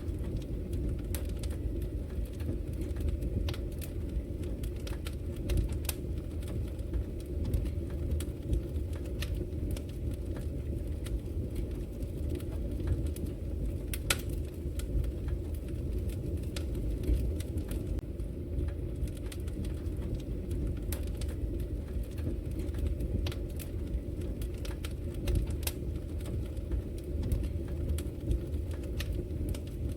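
Wood fire crackling: irregular sharp snaps and pops over a steady low rumble, with one louder pop about halfway through.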